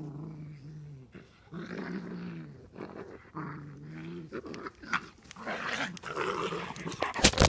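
Dog growling in long low growls, three in a row, then in shorter broken snarls during play-fighting, with a few sharp knocks near the end.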